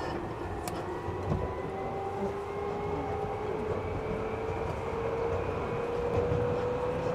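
Seibu 3000 series electric train running, heard from inside the passenger car: wheel and track rumble under a motor whine that climbs steadily in pitch as the train gathers speed.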